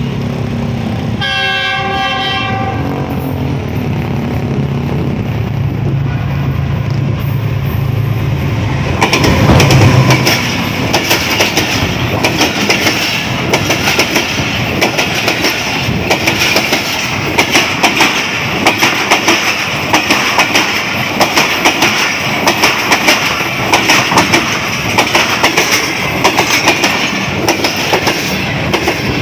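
Passenger express train running through at speed behind a GE U20C (GEU-20) diesel-electric locomotive. The locomotive's horn sounds briefly about a second in, a chord of several tones. Its engine drone builds to the loudest point as it passes about nine seconds in, then the coaches follow with a steady rhythmic clickety-clack of wheels over the rail joints.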